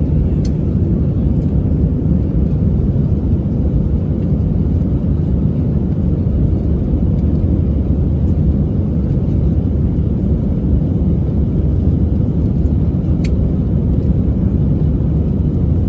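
Steady low roar of an Airbus A320-200's engines and airflow heard from inside the passenger cabin. Two small clicks stand out, one just after the start and one near the end.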